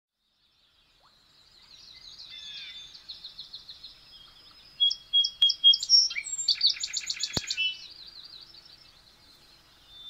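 Small songbirds chirping and trilling, several calls overlapping. The birdsong fades in after about a second, is loudest in the middle with a fast rapid trill, then thins out.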